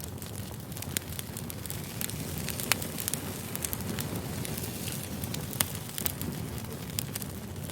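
Firewood burning: a steady low rumble of flames with sharp crackles and pops scattered throughout. The loudest pop comes a little under three seconds in.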